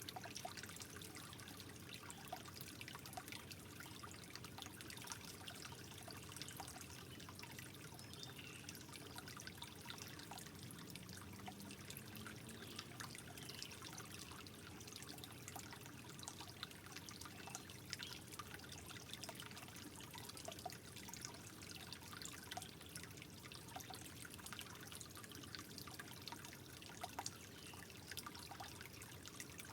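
Water trickling softly and steadily, with a constant patter of small drips and splashes.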